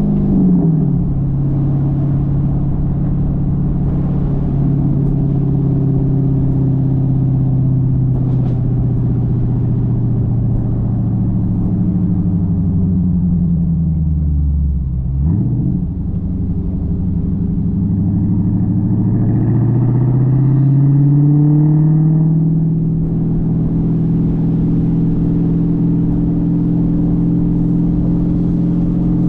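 Dodge Challenger exhaust while driving: the engine note holds steady, drops as the car slows, changes pitch sharply about halfway through, then rises under acceleration before settling into a steady cruise.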